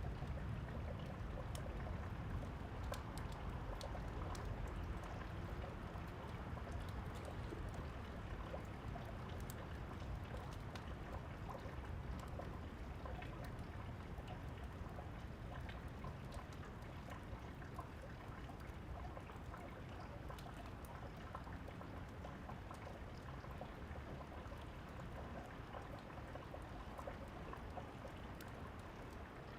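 Steady rain with the last low rumble of thunder dying away at the start, and scattered small crackles of a wood fire.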